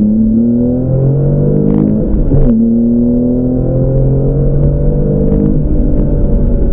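Porsche 911's flat-six engine heard from inside the cabin, pulling hard with its pitch climbing. The pitch drops at a gear change about two seconds in, then climbs again, with another drop about five and a half seconds in.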